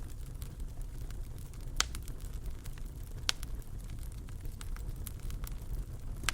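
Fireplace fire crackling over a low steady rumble, with scattered sharp pops, two of them louder, about two seconds in and a second and a half later.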